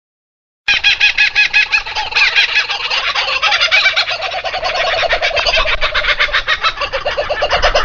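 Bird calls: a fast, continuous run of repeated rattling notes, starting about a second in.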